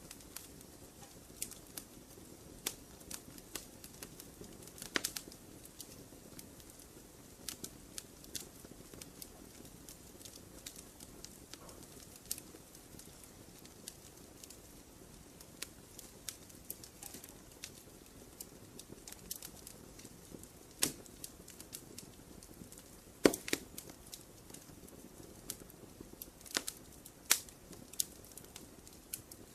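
Wood campfire crackling: irregular sharp snaps and pops over a low, steady hiss of burning wood, with one loud pop about two-thirds of the way through.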